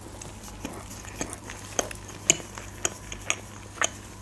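A person chewing a mouthful of döner in bread close to the microphone, with short wet mouth clicks about twice a second.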